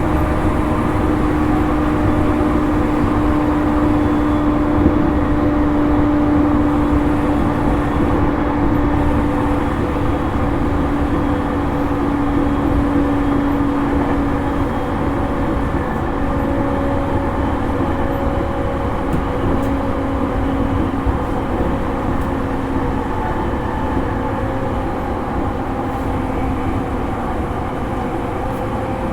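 Running noise inside a JR East E231-series electric train's motor car at speed: steady rail and wheel rumble with the traction motors' hum, a few held tones that fade out after the middle, the whole gradually growing a little quieter.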